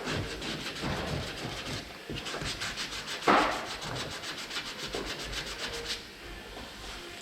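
Sanding body filler on a vehicle body panel: a rasping rub with a quick, even pulse through the middle, and one brief louder scrape about three seconds in.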